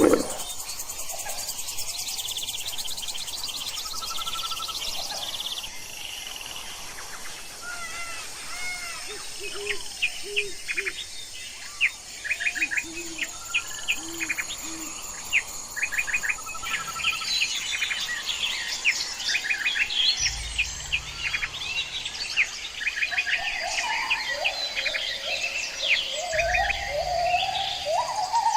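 Several small birds chirping and singing over one another: a busy mix of short chirps, quick trills and varied song phrases with no pause between them.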